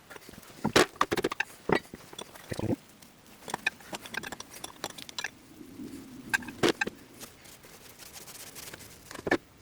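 Scattered clinks and knocks of metal parts being handled and set down, about a dozen irregular strikes with a faint scrape partway through.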